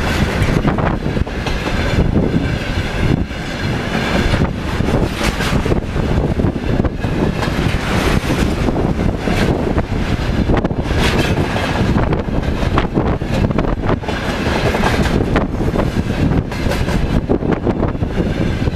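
Railway tank cars of a freight train rolling past at close range: steel wheels rumbling on the rails, with repeated clickety-clack as the wheelsets pass.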